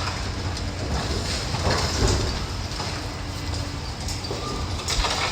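Excavator demolishing a brick school building: a steady low engine rumble under scraping, crunching and knocks of debris being torn down, with louder crashes about two seconds in and near the end.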